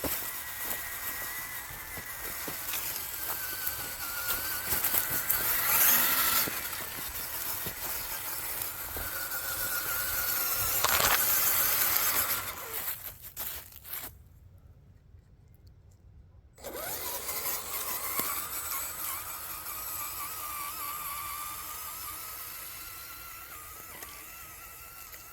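Scale RC crawler's electric motor and gearbox whining as it drives, the pitch rising and falling with the throttle over rough noise from the tyres. It stops for about three seconds past the middle, then starts again.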